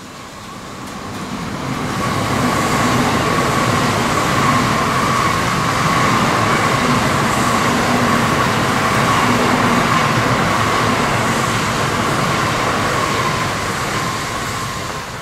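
N700-series Shinkansen high-speed train passing through a station without stopping. A rushing noise with a steady whine in it builds over the first couple of seconds, holds for about twelve seconds as the cars go by, then fades near the end as the train clears.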